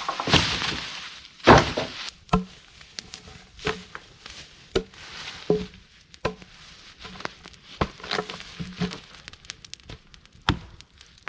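A series of irregular sharp knocks and clunks, about one a second, the loudest about a second and a half in, several with a short hollow ring.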